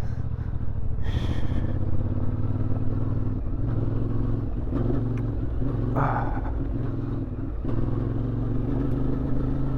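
Motorcycle engine running at a steady, even speed, with a brief rustle about six seconds in.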